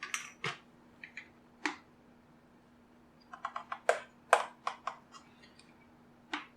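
Sharp plastic clicks and snaps in irregular clusters, a few at first, then a quick run of about ten around the middle and one more near the end. They come from prying at the plastic housing of a JBL Flip 2 speaker with a pick during its disassembly.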